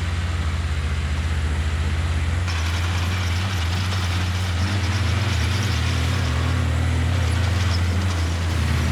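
Diesel engine of heavy earthmoving machinery running with a steady low note; about two and a half seconds in the sound changes abruptly, and the engine note shifts a little after that.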